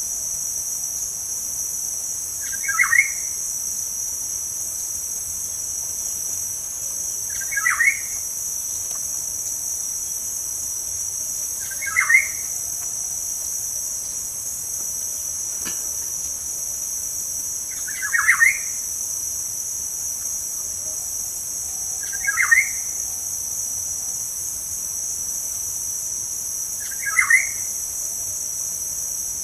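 A steady high-pitched insect drone, with a bird giving a short call six times, about every four to five seconds.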